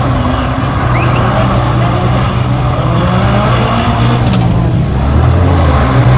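Rally car engine revving up and down as it is driven around a tight course, over a steady low engine drone. It gets louder near the end.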